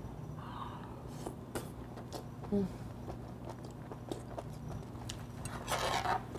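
A person chewing a mouthful of stewed small octopus close to the microphone: soft wet chewing clicks, a brief hummed sound about two and a half seconds in, and a breathy puff near the end.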